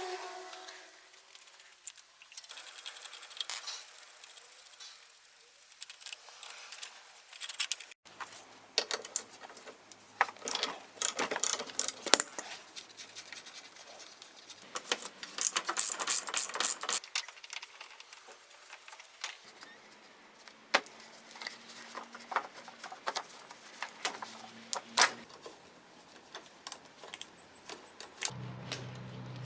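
Metal hand tools and fasteners clinking, clicking and rattling in irregular bursts as a scooter's carburetor and engine connections are unbolted.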